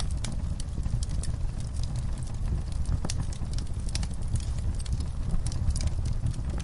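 Wood fire burning in a fireplace, crackling with irregular sharp pops and snaps over a low, steady rumble of flame.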